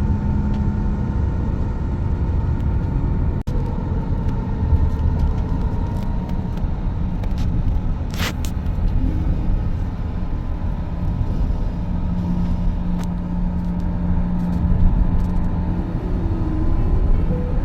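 Steady low rumble of a motor vehicle running, with a brief hiss about eight seconds in.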